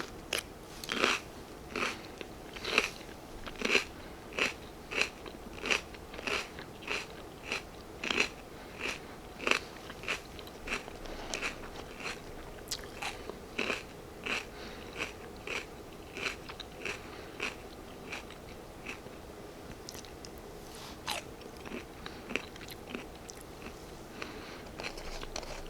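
Close-miked chewing of crunchy food, shrimp cocktail or raw baby bell peppers, steady crisp crunches about one and a half times a second that thin out and turn sparser near the end.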